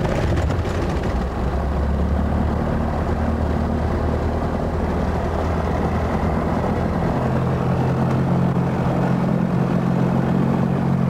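Light propeller airplane's piston engine running steadily just after starting, its pitch stepping up about seven seconds in as the revs rise.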